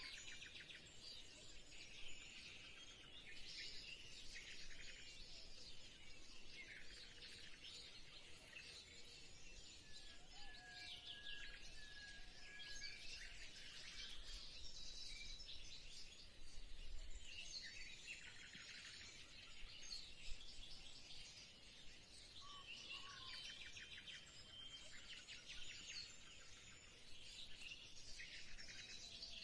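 Faint, busy chirping of birds, with a few short whistled notes among it.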